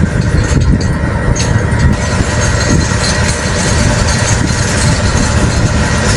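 Heavy diesel construction machine running steadily as a pile is being pulled out.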